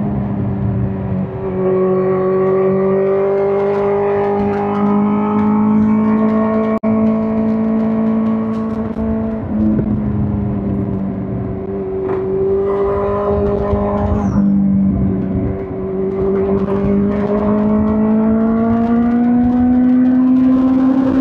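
2005 Suzuki GSX-R1000 K5's inline-four engine running under way at fairly steady revs, its pitch wandering gently and rising near the end. The sound cuts out very briefly about seven seconds in.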